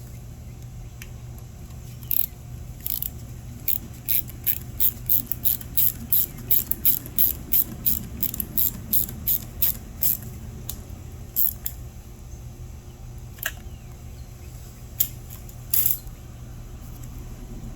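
Hand ratchet wrench clicking as it turns a starter mounting bolt: a quick, even run of short clicks, about two a second, then a few scattered clicks after the run stops, over a steady low hum.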